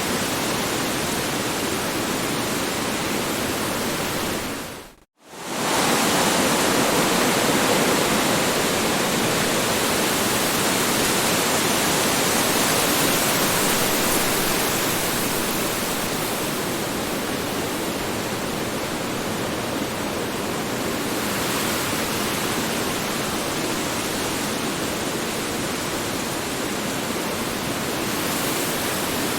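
Strong wind blowing steadily as a dense rushing noise. It fades out to silence for a moment about five seconds in, then quickly returns at full strength.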